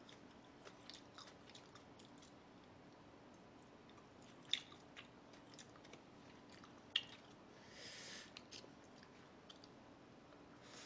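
Quiet close-up chewing of food, with faint wet mouth clicks scattered throughout, two of them louder, and a brief soft hiss about three-quarters of the way through.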